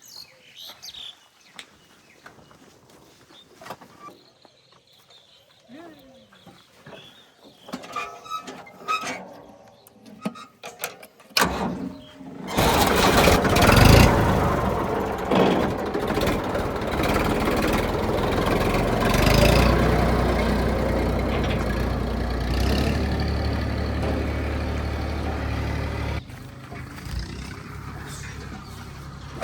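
A vehicle engine starts suddenly about twelve seconds in and runs loudly and steadily with a low hum, then drops to a quieter level near the end. Scattered short knocks and faint sounds come before it.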